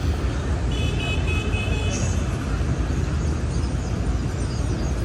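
City street traffic: a steady low rumble of passing vehicles. About a second in, a brief high-pitched tone sounds for about a second.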